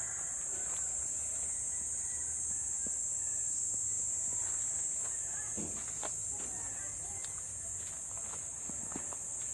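Steady high-pitched drone of an insect chorus, with a few faint knocks and rustles beneath it.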